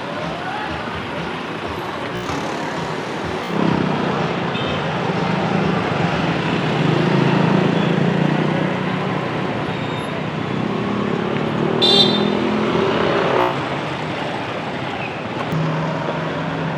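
Street traffic, with motorcycle and car engines passing. The engine hum grows louder from about four seconds in, then eases off near thirteen seconds, and there is a brief high-pitched sound near twelve seconds.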